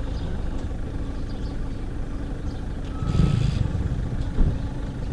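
A vehicle engine running with a steady low rumble, with a brief louder rush about three seconds in.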